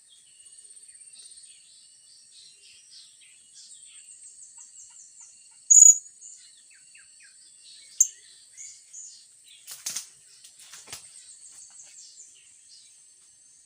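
Blue-crowned hanging parrots (serindit) calling: many short, thin, high-pitched chirps, with two louder sharp calls about six and eight seconds in. A steady high whine runs underneath, and there is a brief rustle about ten seconds in.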